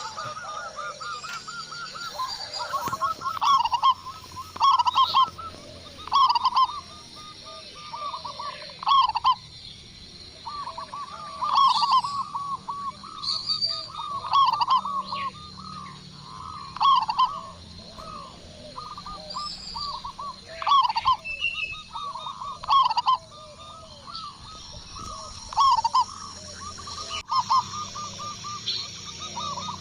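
Zebra doves (perkutut) cooing: quick strings of short, staccato coo notes, the loud phrases repeating every second or two and overlapping at times.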